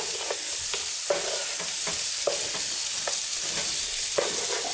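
Whole quails sizzling in hot oil while a wooden spatula stirs and turns them, its strokes making short, irregular scraping knocks against the pan over a steady hiss of frying.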